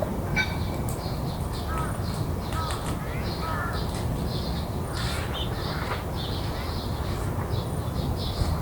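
Garden ambience: birds calling, with crow caws, over insects chirping in a steady repeating pulse, and a steady low rumble beneath.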